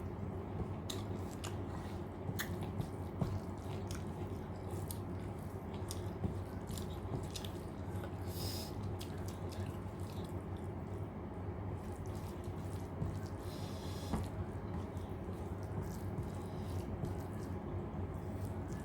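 Close-up eating sounds: chewing, with soft wet squishing of rice and dal and scattered small clicks, over a steady low hum.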